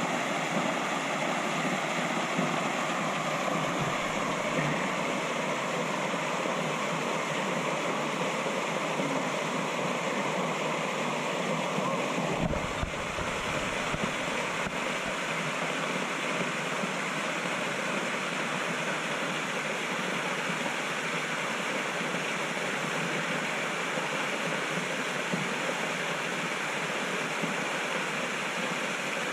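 Waterfall pouring steadily into its pool, a constant rushing of water, with a brief low rumble about halfway through.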